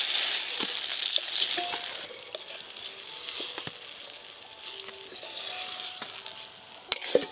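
Eggplant slices sizzling in hot oil in a metal karai, loudest in the first two seconds, with clinks of a metal spatula against the pan and a steel plate as the fried slices are lifted out. There are a couple of sharp clinks near the end.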